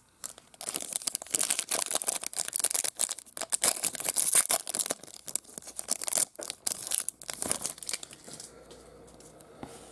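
Trading-card pack wrapper being torn open and crinkled by hand, a dense run of crackling that dies down about eight seconds in.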